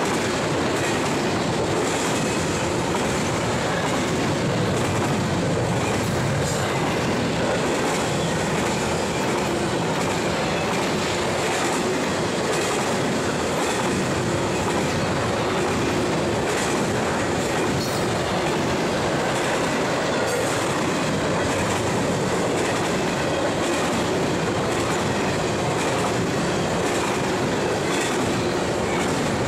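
Double-stack intermodal container cars of a CSX freight train rolling past at steady speed: a continuous, even rumble and rush of steel wheels on rail, with occasional faint clicks from the wheels.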